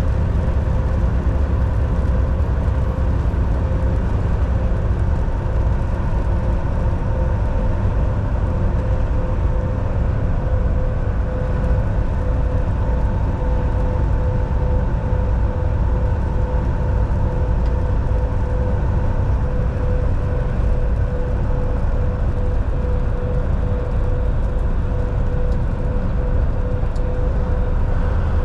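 Volvo VNL 760 semi truck driving at a steady speed, heard from the cab: a deep, even engine and road rumble with a constant mid-pitched hum over it.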